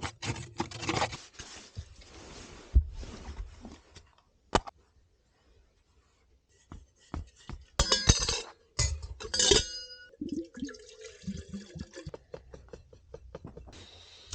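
Coffee-making gear being handled: scattered clicks, knocks and clinks, with a short ringing clink about nine and a half seconds in. There is a quiet pause around the middle.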